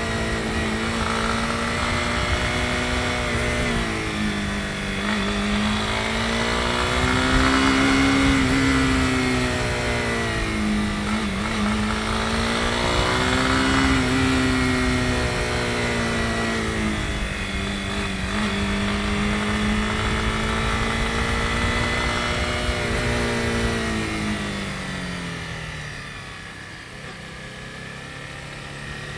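Honda CB250R single-cylinder engine running under way, its pitch rising and falling several times with throttle and gear changes. Near the end the engine note falls and gets quieter as the throttle closes, then picks up again.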